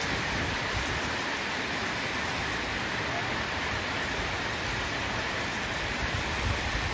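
Steady rain falling, an even hiss with a low uneven rumble underneath.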